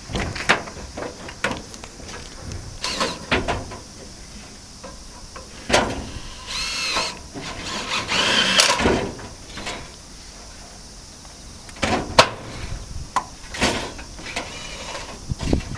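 Repair work with tools: irregular knocks, clicks and clatter, with a short pitched power-tool whine about six and a half seconds in.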